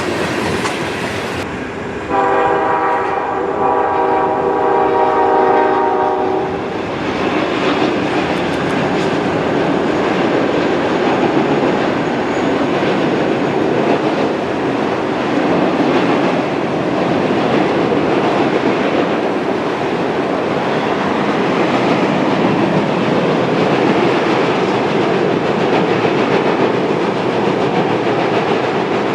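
Freight locomotive's chord horn sounding one long blast of about five seconds, a couple of seconds in. After it, the steady rumble and wheel clatter of a freight train rolling past.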